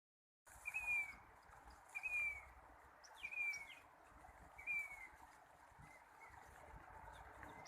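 A bird calling four times, each a short, slightly falling whistled note, about one to one and a half seconds apart, over a steady low rushing noise.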